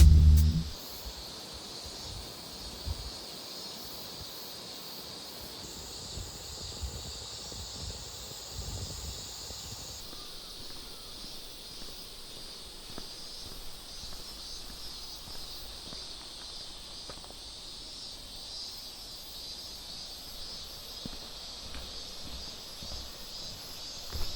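Outdoor ambience: a steady, high, even hiss, joined by a second, higher hiss from about six to ten seconds in.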